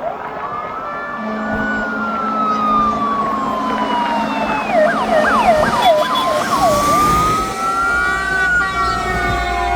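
Fire engine sirens sounding together: a slow wail falling and rising, joined about five seconds in by a fast yelp of about five quick sweeps, with a low engine rumble in the second half.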